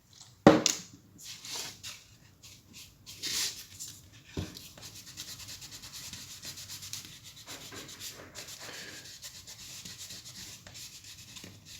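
Cotton wad rubbing quickly back and forth over a copper printed circuit board, wiping it clean with alcohol. There is a sharp knock about half a second in, and a few short scrapes before the steady rubbing sets in.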